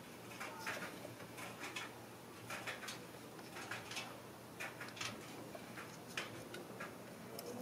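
Faint, irregular light clicks and taps from hand work on the engine, such as tools and parts being handled, over a low steady hum.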